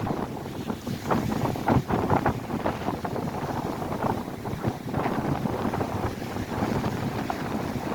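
Strong wind buffeting the microphone in irregular gusts over the steady wash of waves breaking on a lakeshore.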